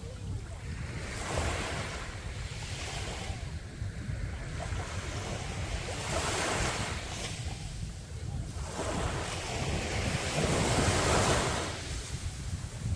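Ocean waves breaking and washing up the beach in surges every few seconds, the biggest near the end, with wind buffeting the microphone.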